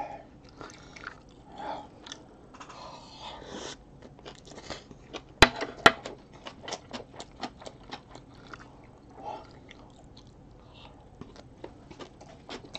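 Close-up chewing of a mouthful of fried rice and kimchi, with wet smacks and crunching in quick runs. Two sharp clicks come about five and a half seconds in.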